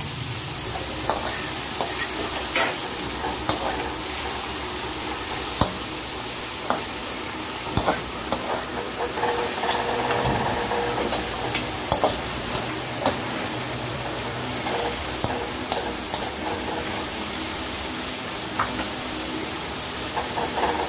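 Sliced tomatoes, garlic and onions sizzling in hot oil in a metal wok, stirred with a metal spatula that clicks and scrapes against the pan every second or so at uneven intervals.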